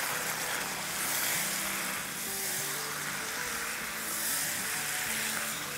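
Spiced chicken pieces sizzling in oil in a non-stick wok as a silicone spatula stirs them, a steady frying hiss, with soft background music underneath.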